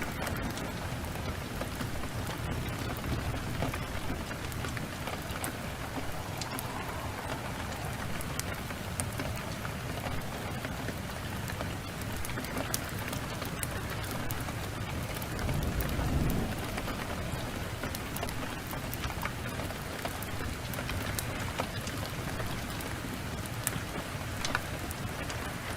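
Heavy downpour hissing steadily, with the sharp pops and crackles of a wood fire in a fireplace scattered through it. A low rumble of thunder swells and fades about sixteen seconds in.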